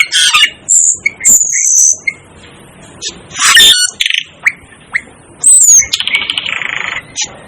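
Asian glossy starling calling: a string of short, sharp, high whistles and harsh squawks, with a buzzy, rattling chatter about six seconds in.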